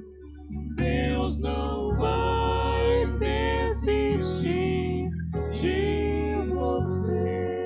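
A vocal quartet singing a gospel song in close harmony over sustained low instrumental accompaniment, the voices closing on a held chord near the end.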